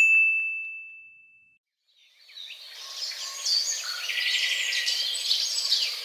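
A single bright ding that rings out and fades away over about a second and a half. Then, from about two seconds in, a chorus of birds chirping and singing, growing louder.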